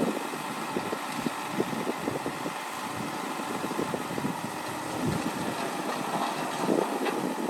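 Diesel engine of heavy earthmoving machinery running steadily, with irregular clanks and knocks of metal working throughout.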